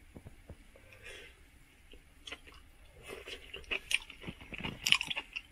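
A person chewing a mouthful of boiled bracken fern (gosari) taken from soup, with irregular small wet mouth clicks that grow denser and louder in the second half. It is soft and tender to chew.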